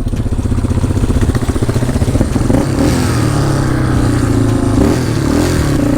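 Quad (ATV) engine running on the move, its exhaust pulsing steadily, with the revs rising a little about halfway through.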